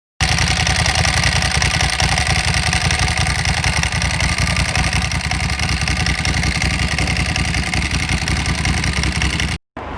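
Motorcycle engine running steadily and loudly, cut off abruptly just before the end.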